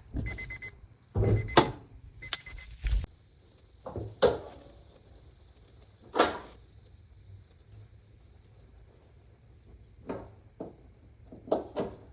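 A series of separate sharp clunks and knocks, several close together near the end, with a faint intermittent beeping near the start.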